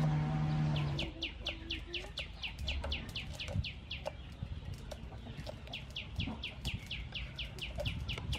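A bird calling in two quick runs of falling notes, about six a second, each run lasting two to three seconds. Faint knife taps on a wooden chopping board sound beneath as okra is sliced, and background music stops about a second in.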